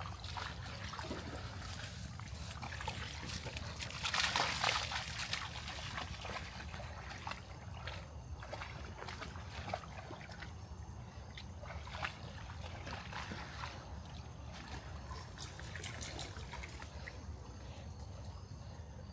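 Splashing and sloshing through shallow floodwater on a muddy trail, with small trickling splashes throughout and a louder splash about four seconds in.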